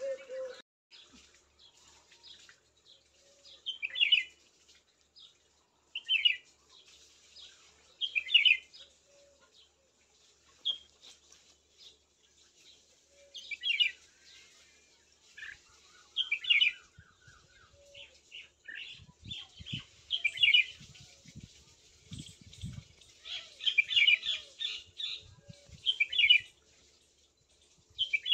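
Birds chirping: short, bright, falling chirps that repeat every couple of seconds, clustering more densely near the end. Faint low knocks are heard in the second half.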